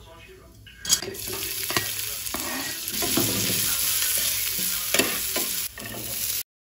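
Chopped garlic and ginger frying in hot oil with cumin seeds in a nonstick pan, giving a loud steady sizzle, stirred with a spatula that taps and scrapes against the pan. The sizzle starts suddenly about a second in, and chopped onion goes in near the end just before the sound cuts off abruptly.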